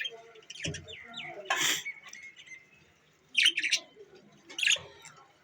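Pet budgerigars chirping: a handful of short, sharp calls spread over a few seconds, the last two the loudest.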